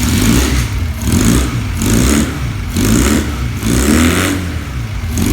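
Honda CD125 twin's parallel-twin four-stroke engine running and being revved, the note rising and falling about once a second.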